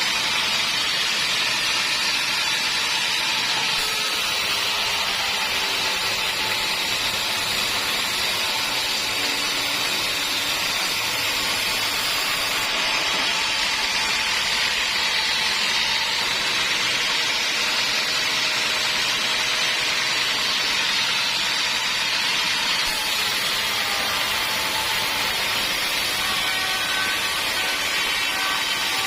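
Homemade sawmill's saw running steadily, a continuous loud machine noise without a break.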